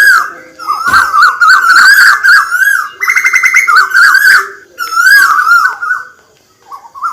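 A bird calling in quick, chattering runs of short notes that bend up and down, with a fast rattle of clicks about three seconds in and a brief pause near the end.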